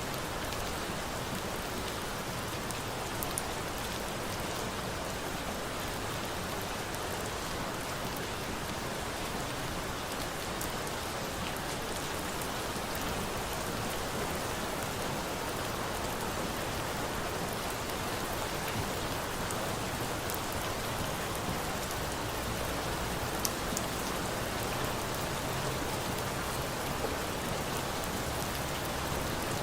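Steady rain falling, an even hiss, with a few sharp pops from a crackling wood fire.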